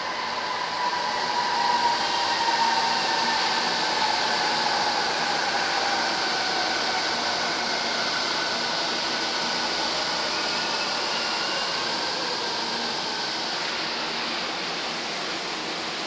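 Train running on its rails: a steady rush of wheel and track noise with a whine that slides down in pitch over the first several seconds.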